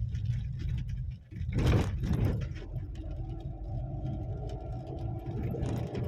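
A motor vehicle engine running, with a loud rushing burst of noise about a second and a half in. After that the engine settles into a steadier note.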